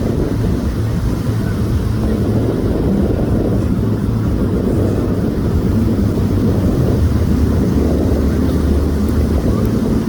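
Extra 330 aerobatic plane's piston engine and propeller droning steadily during a display flight, its pitch shifting slightly as the plane manoeuvres.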